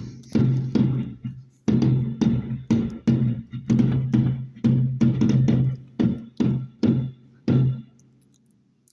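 A rapid barrage of firework bangs, two to three explosions a second at uneven spacing, each with a deep boom, stopping about a second before the end.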